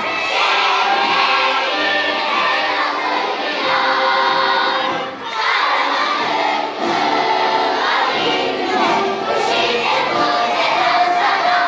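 A group of primary school children singing a song together.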